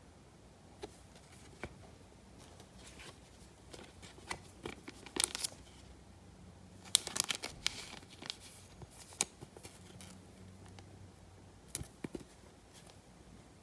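Crinkling and tearing of a trading-card pack wrapper being handled and opened, in scattered bursts of crackles and clicks, busiest around the middle.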